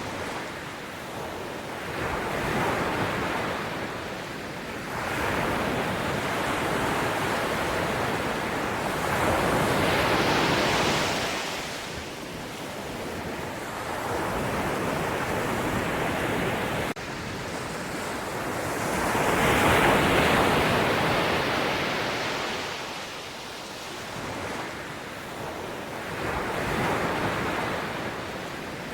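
Ocean waves breaking and washing on a shore, the surf swelling and ebbing every few seconds, with some wind on the microphone.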